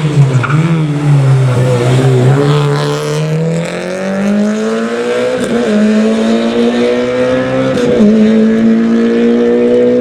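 Rally car engine at full throttle on a gravel stage: the revs drop in the first couple of seconds, then climb about four seconds in and hold high.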